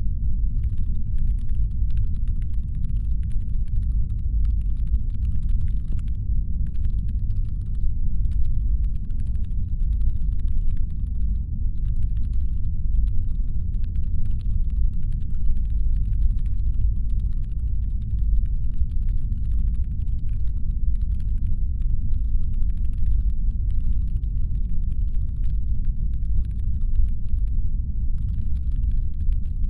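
Steady, deep brown-noise rumble, a designed spaceship engine hum, with faint rapid clicking like typing on a keyboard laid over it in runs with short pauses.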